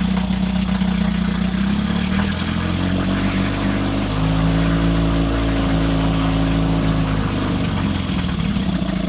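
1961 Evinrude 3 hp Lightwin two-cylinder two-stroke outboard running in a test tank as it runs out of fuel. The engine speed wavers, dropping for a few seconds in the middle and picking back up near the end.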